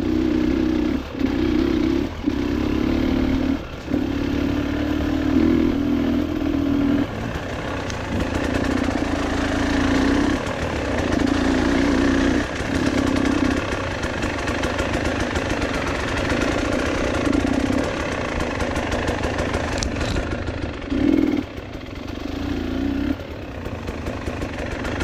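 A vehicle engine running under changing throttle. Its steady drone repeatedly dips and comes back over the whole stretch.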